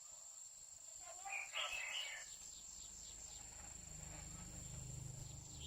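Female red-whiskered bulbul giving one short call of several quick notes, a little over a second in, over a steady faint high whine.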